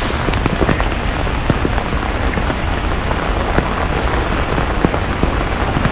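Heavy rain falling steadily: a dense hiss with many sharp raindrop hits close by.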